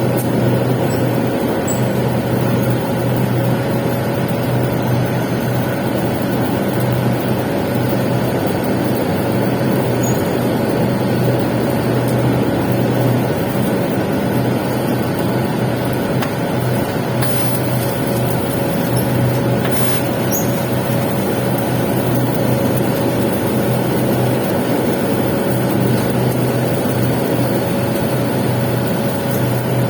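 Arc welding on pipe during the capping pass: a steady, unbroken arc sound with a constant low machine hum under it.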